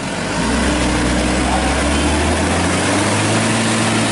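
Heavy truck engine running steadily at low revs, its low hum growing louder about half a second in.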